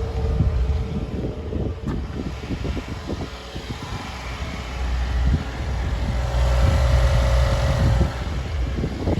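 Subaru WRX's turbocharged flat-four engine idling just after a cold start, a steady low rumble that grows somewhat louder for a couple of seconds past the middle, with a single click about two seconds in.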